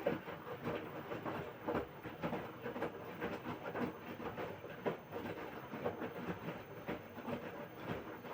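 LG front-loading washing machine drum turning during the wash cycle, wet laundry tumbling inside it with a steady stream of irregular knocks and clatter.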